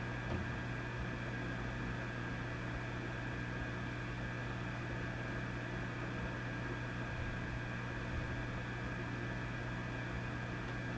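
Vintage tube amplifier humming: a steady low mains hum with a few faint higher tones over an even hiss.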